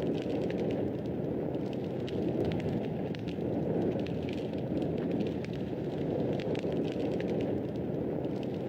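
Fireplace fire crackling: frequent small sharp pops and snaps scattered over a steady low rush of the flames.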